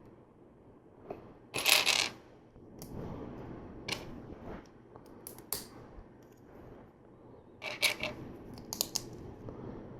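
Loose LEGO plastic pieces clattering and clicking as they are handled and pressed together: a rattle of pieces about a second and a half in, a few single clicks, and another cluster of clatters near the end.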